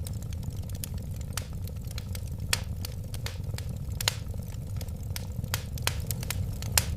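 Burning wood fire crackling: irregular sharp pops and snaps over a steady low rumble of flames, with a few louder pops about two and a half seconds, four seconds and almost seven seconds in.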